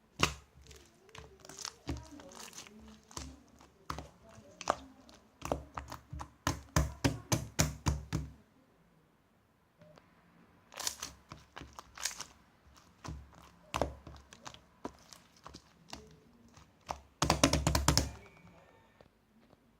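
Quick clusters of sharp taps and thunks on hard objects, with a pause of about two seconds near the middle and a dense burst of tapping near the end.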